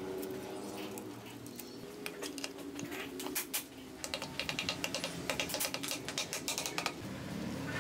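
Rapid run of light, sharp clicks and taps, sparse at first and dense from about two seconds in until near the end, over a faint steady tone.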